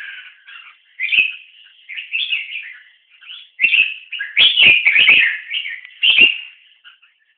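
Birds chirping and calling in quick, repeated phrases. Several sharp taps sound in the middle.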